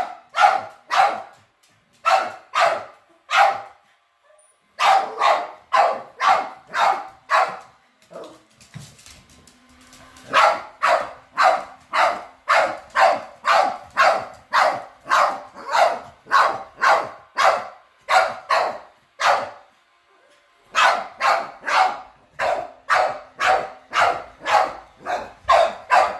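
Boston terrier barking steadily at a robot vacuum, about two sharp barks a second in long runs broken by short pauses, with a faint steady hum beneath from about a third of the way in.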